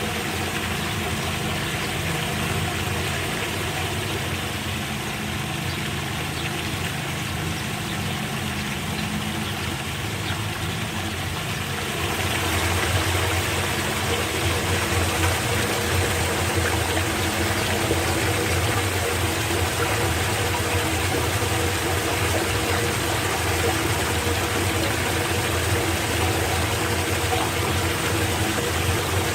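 Floodwater rushing down into a street storm drain, a steady noisy rush with a low engine hum underneath. About twelve seconds in, the rushing gets louder.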